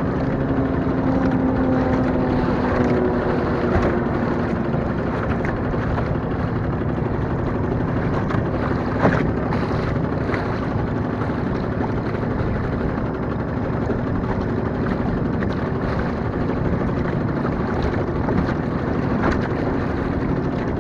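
1915 Evinrude Rowboat motor, a single-cylinder two-stroke outboard, running steadily under way on the water, its pitch dipping slightly in the first few seconds.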